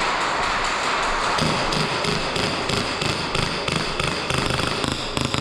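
Airsoft match noise: a steady hiss with a quick run of taps and low thumps starting about a second and a half in.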